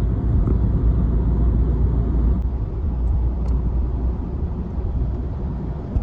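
A vehicle driving: a steady low rumble of engine and road noise that eases slightly in the second half.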